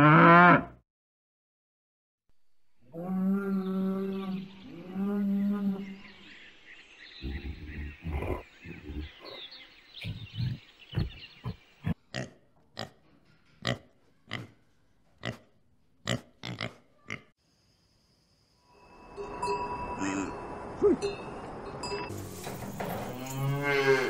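A string of animal calls: a cow's loud moo ending right at the start, two shorter pitched calls a few seconds in, then a long run of short, sharp warthog grunts, and bleating calls near the end.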